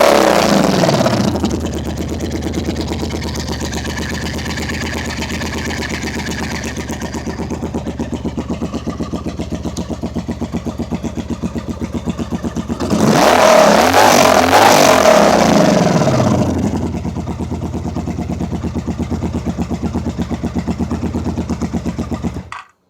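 1983 Honda Magna V45 750's V4 engine running through shortened, cut-off exhaust pipes: idling with a steady pulsing beat, blipped twice, near the start and again about halfway, the revs rising and falling back each time. The sound cuts off abruptly near the end.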